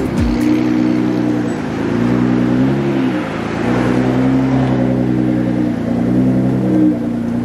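Car engine running at low revs while the car creeps along at walking pace, heard from inside a car: a steady low hum whose pitch dips and rises slightly about three seconds in and again near the end.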